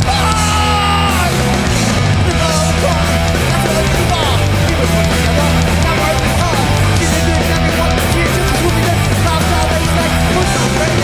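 New York hardcore punk band playing live: distorted electric guitars, bass and drums at full volume, steady and without a break.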